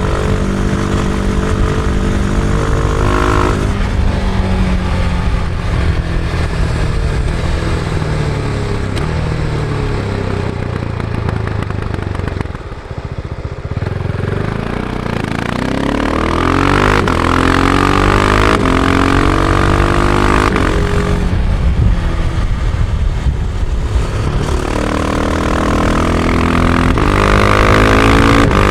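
Husqvarna Vitpilen 701's single-cylinder engine on stock exhaust, riding under load. The revs climb, then sink slowly for several seconds, drop away briefly about halfway as the throttle closes, and climb again twice.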